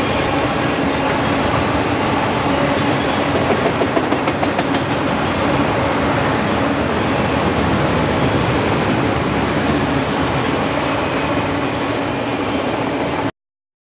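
Freight train auto-rack cars rolling past: a steady rumble and clatter of steel wheels on rail. A thin, high wheel squeal comes up about ten seconds in and grows louder, then everything cuts off abruptly just before the end.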